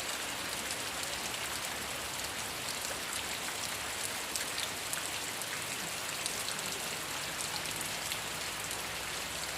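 Steady rain falling: a dense, even hiss with many small ticks of single drops striking surfaces.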